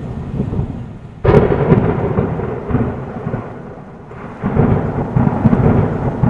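Thunderstorm with heavy rain and low rumbling thunder. A louder burst starts suddenly just over a second in, and another swell of noise rises about four seconds in.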